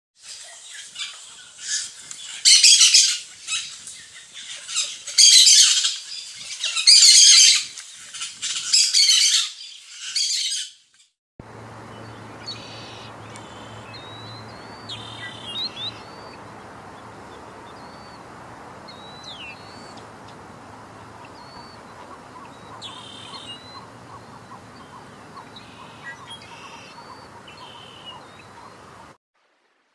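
Birds calling: loud, harsh chirping and squawking in repeated bursts for about ten seconds. After a short break comes a steady quieter hiss, with scattered short chirps and whistles from small birds.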